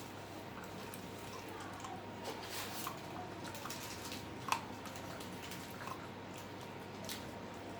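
A Kombai dog eating meat: scattered wet chewing and smacking sounds, with one sharp click of teeth about four and a half seconds in.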